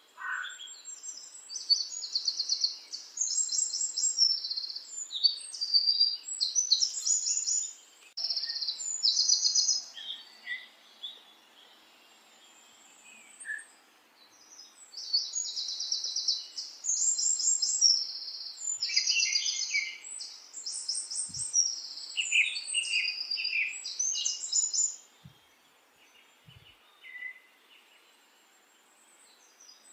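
A small songbird singing in rapid, high-pitched trills and chirps, in two long bouts with a short pause between them, going quiet near the end.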